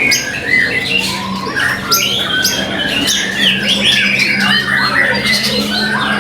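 White-rumped shama (murai batu) singing: a continuous, fast run of varied whistles mixed with scratchy, chattering notes.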